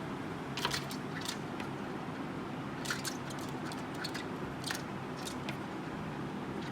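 A bird making short, sharp high-pitched chirps or clicks, scattered irregularly and a few of them close together, over a steady low rumble of traffic.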